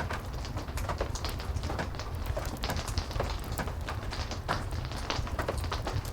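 Heavy rain falling steadily under a constant low rumble, mixed with frequent sharp, irregular crackles of a wood fire.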